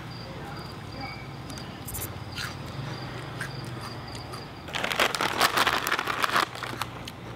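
Crunchy snack crackers being chewed: a run of sharp, crackling crunches starting about two-thirds of the way in. Before that, an insect chirps steadily in high, short, evenly spaced pulses over a low hum.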